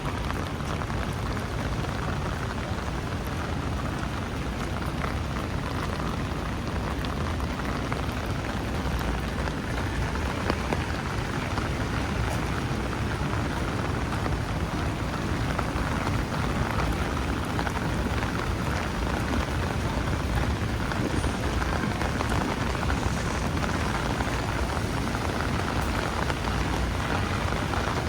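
Steady rainstorm falling: a constant hiss of rain with the fine patter of drops.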